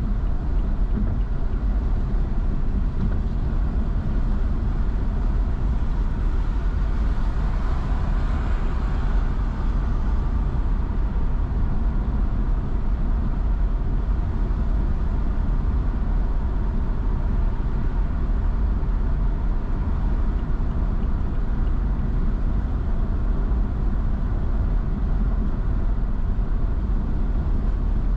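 Steady road noise of a car driving on a drizzly, wet road: a low rumble with tyre hiss, which swells briefly about eight seconds in.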